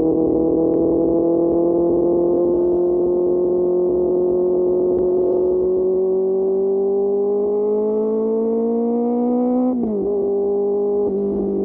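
QJ Motor SRK600's inline-four engine through an SC-Project exhaust, pulling with its pitch climbing slowly and steadily, then dropping sharply near the end and holding steady at a lower pitch.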